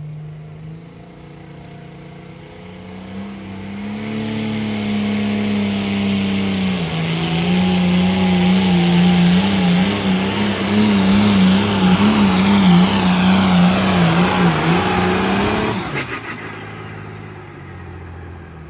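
Diesel pulling tractor's engine at full power dragging a weighted sled down the track, its pitch wavering under the load for about twelve seconds. It shuts off abruptly about sixteen seconds in.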